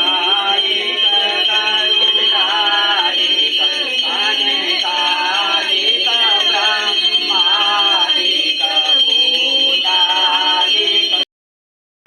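Singing, a wavering melodic line over a steady high-pitched whine; it cuts off abruptly near the end.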